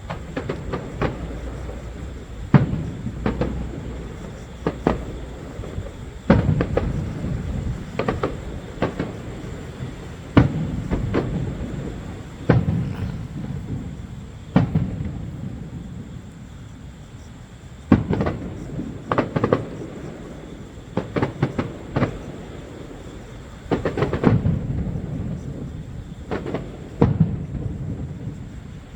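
Aerial fireworks bursting: an irregular series of sharp booms, some coming in quick clusters, each trailing off in a low rumble.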